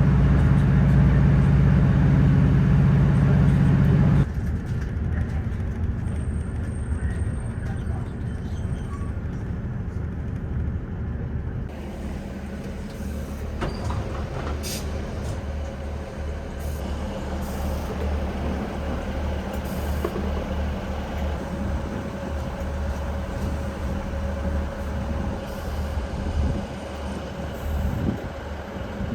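A ScotRail diesel train's engine running and idling as a steady low drone. A louder low hum for the first four seconds cuts off abruptly, and a quieter drone carries on with a faint steady tone.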